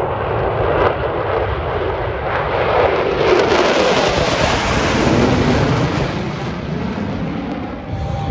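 F-16 fighter jet roaring past. The roar builds about three seconds in, stays at its loudest for a few seconds, then fades.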